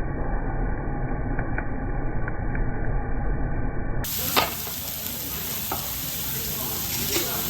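A muffled, low steady rumble with a few faint clicks, then, after a sharp click about four seconds in, pork belly sizzling on a hot iron griddle.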